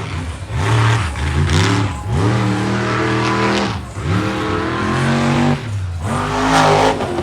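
Monster truck engine revving hard in repeated throttle bursts, its pitch sweeping up and levelling off several times.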